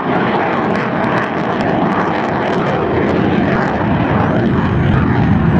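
F/A-18 Hornet jet engines in maximum afterburner, a loud, steady rushing jet noise that grows a little louder near the end.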